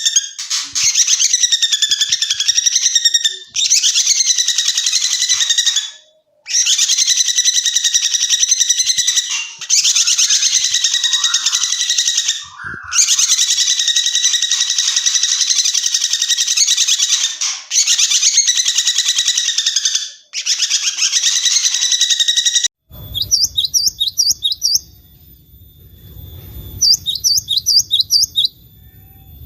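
Songbird recordings: long phrases of fast, rapid trilling, broken by short pauses. About 23 seconds in, a different bird gives two short bursts of quick high notes over a low rumbling background.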